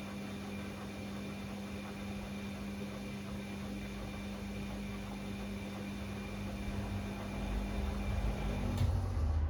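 Bosch Classixx 6 washing machine on a 90 °C cottons wash in its heating phase, running with a steady motor hum. A low rumble from the drum builds near the end, and a click about nine seconds in cuts off the hum.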